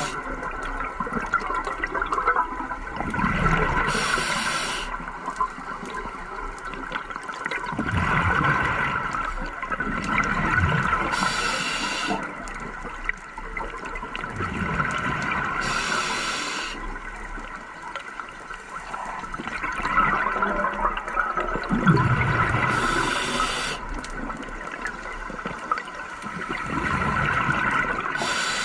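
Scuba diver breathing through a regulator underwater: a rush of exhaled bubbles every five seconds or so, with a short, sharp hiss of the demand valve at intervals between them.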